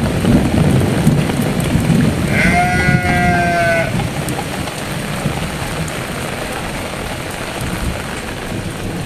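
Heavy rain pouring steadily, a little louder in the first few seconds. About two and a half seconds in, a sheep bleats once, a long call held at one pitch.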